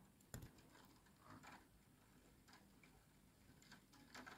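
A few faint, scattered ticks of rain striking a window pane over near silence.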